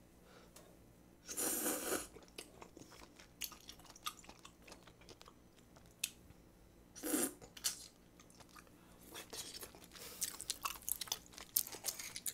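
Close-miked chewing of spicy stir-fried octopus, a run of small wet clicks and smacks, with two louder half-second bursts about a second and a half in and about seven seconds in.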